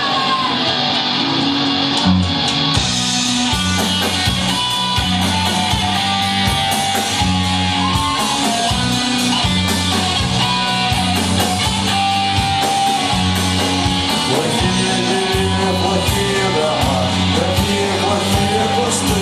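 Live rock band playing electric guitars, bass and drums, with the drum beat coming in about two seconds in.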